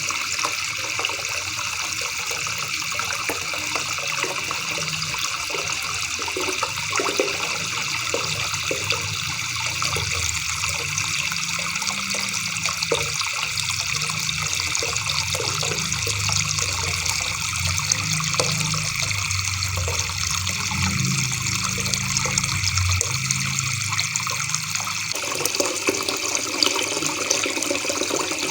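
River water babbling in a steady, even rush, with a low murmur underneath that drops away near the end.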